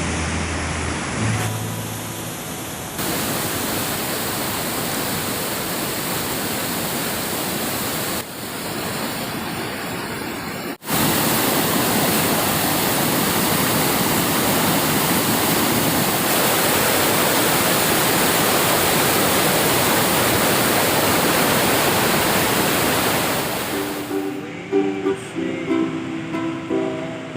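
Steady rushing water of a waterfall, with abrupt jumps in level where the shot changes. Plucked-string music, like a ukulele, starts near the end.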